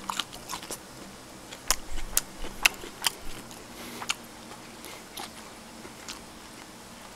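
A person chewing pickled chili peppers close to the microphone: scattered crisp crunches and mouth clicks.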